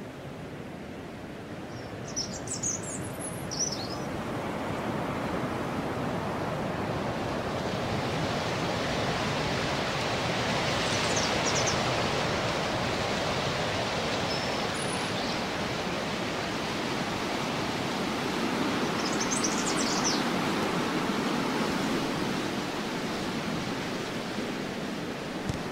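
Steady outdoor rushing noise that slowly swells and eases, with a few short, high bird chirps over it.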